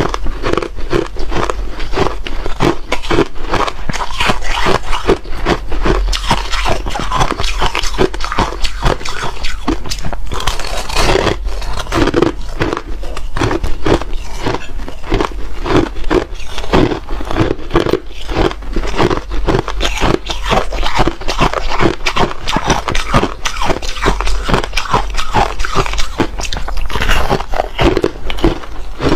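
Ice being bitten and chewed close to the microphone: a continuous run of sharp, loud crunches, several a second.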